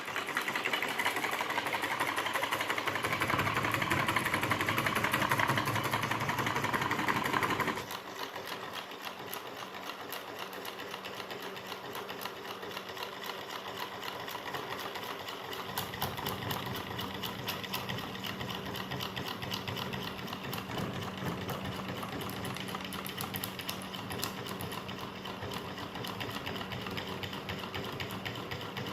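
Homemade V-twin solenoid engine running: a fast, steady mechanical clatter of clicks as the solenoids pull their plungers and turn the crank. It is louder for about the first eight seconds, then drops and carries on more quietly.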